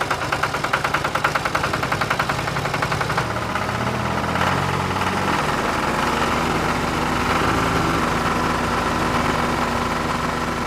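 Tractor engine running, with a fast chugging pulse for the first few seconds that smooths into a steady drone.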